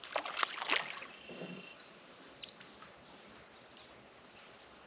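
Small birds singing: quick runs of high chirping notes, after a few short knocks in the first second, over a faint outdoor hush.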